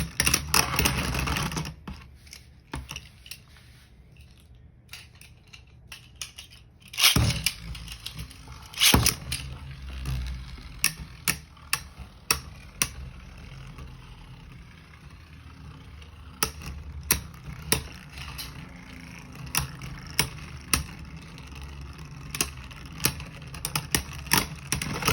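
Beyblade Burst spinning tops battling in a plastic stadium. There are two loud rasping swishes about seven and nine seconds in, then repeated sharp clicks as the tops strike each other and the stadium walls.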